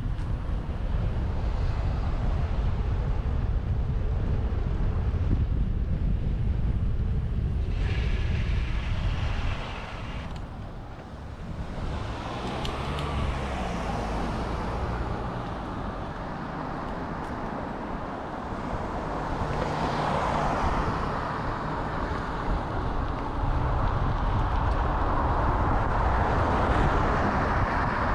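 Wind rushing over the microphone while riding a bicycle, over steady road traffic. It dips briefly about a third of the way in, and a couple of vehicles swell past in the second half.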